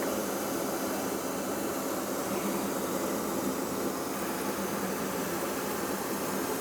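Steady cabin noise inside a Boeing 737-800 airliner in flight: an even rush of jet engines and airflow that does not change.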